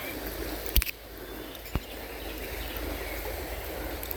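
Steady wash of a shallow river flowing, with two short sharp clicks about a second apart early on.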